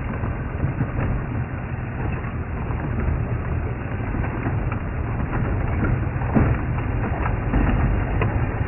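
Safari vehicle driving over a rough dirt track: a steady rumble of engine and road, with frequent knocks and rattles as it jolts along.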